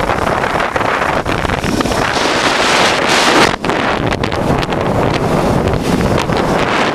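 Heavy wind rush buffeting the microphone of a moving motorcycle, with the 1988 Honda Transalp's 600 cc V-twin engine running steadily underneath.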